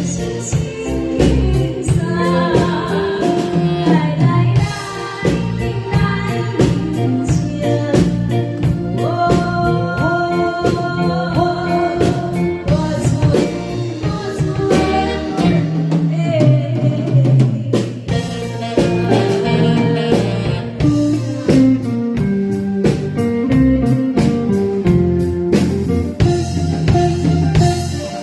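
A singer performing a Taiwanese enka-style song, the voice carrying a wavering melody over a band-style backing track with drums, bass and guitar keeping a steady beat.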